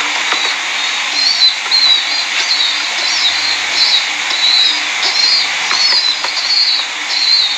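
A pet bird chirping repeatedly in short, high calls, about two a second, over a steady background hiss.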